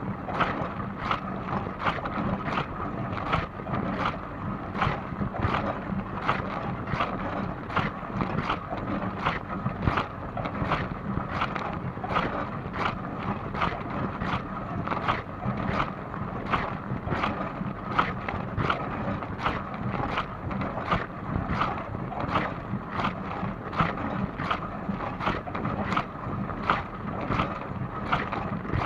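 Dishwasher running a wash cycle: a steady rush of water spraying inside the tub, with regular splashes nearly twice a second.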